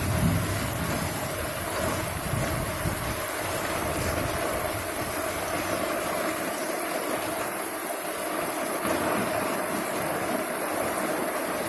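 Strong gusty wind blowing steadily, with low buffeting rumbles on the microphone in the first second or so.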